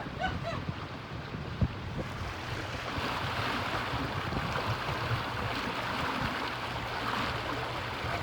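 Wind buffeting the microphone and water rushing along the hull of a catamaran under way. The water hiss grows louder about three seconds in.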